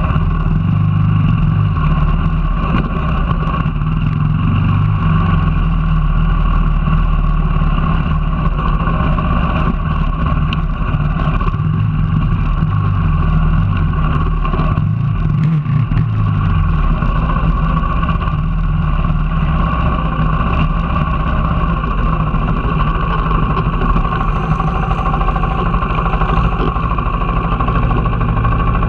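Off-road motorcycle engine running steadily under the rider while trail riding, its note rising and falling a few times near the middle as the throttle changes.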